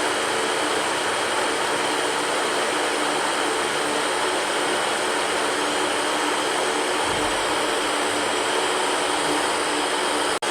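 Electric fan running steadily: a constant even whoosh of air with a faint hum. It cuts out for a split second near the end, as at the seam of a loop.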